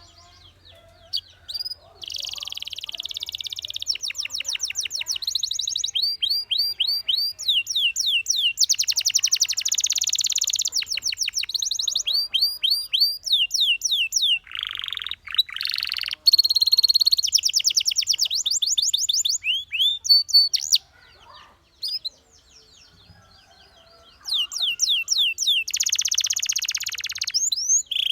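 Domestic canary singing: long phrases of rapid repeated notes, each a quick downward sweep, alternating with dense buzzing trills. The song pauses briefly at the start and again about three-quarters of the way through, then resumes.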